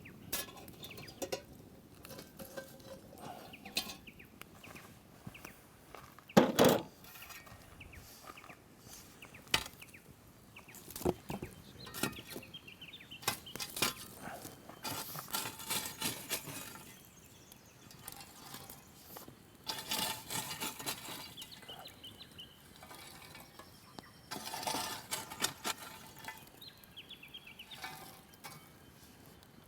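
Cooking utensils and pots clinking and knocking during camp food preparation, in scattered irregular strikes with one louder knock about six seconds in.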